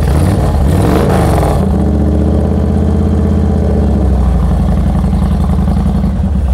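2006 Honda VTX1300R's carbureted 1300cc liquid-cooled V-twin starting through its aftermarket header exhaust, changing pitch briefly at first and settling into a steady idle about a second and a half in; it fires right up and the idle is good.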